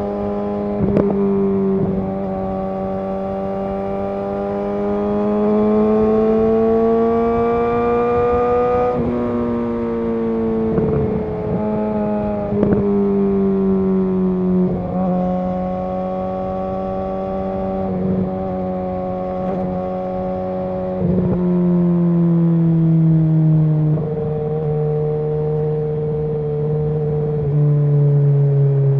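Suzuki GSX-R750 inline-four engine running under way at a steady mid-range pitch that slowly rises and eases off, with short breaks now and then. Its note steps lower twice near the end as the bike slows.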